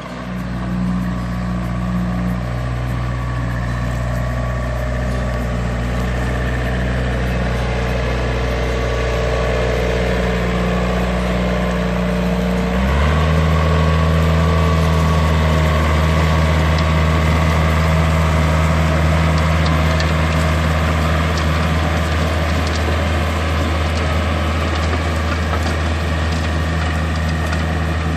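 Yanmar US545 tractor's three-cylinder diesel engine running steadily with its rotary tiller. About thirteen seconds in the engine note changes abruptly and stays a little louder.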